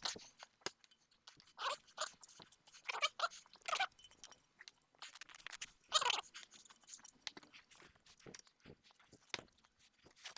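Exhaust heat wrap being pulled and wound around the manifold pipes by hand: irregular crunching and rustling of the fibrous tape with scattered clicks, and a few louder scrapes about two, three to four, and six seconds in.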